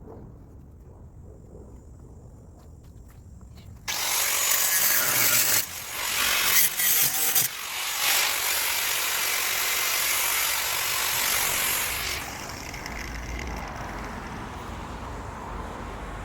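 Angle grinder cutting through the steel of a Mercedes 250SE body shell. After a few quieter seconds the cut starts suddenly and loud at about four seconds in, breaks off briefly twice, and eases off at about twelve seconds.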